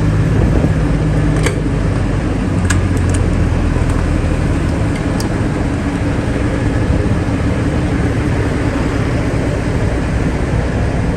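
Steady low running of idling diesel truck engines at the fuel island, with a few sharp clicks in the first half.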